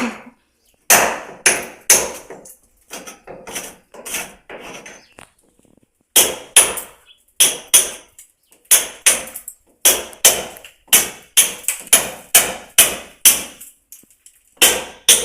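Hammer blows struck repeatedly in building work: a few scattered blows, then from about six seconds in a steady run of about two blows a second, a short pause, and two more near the end.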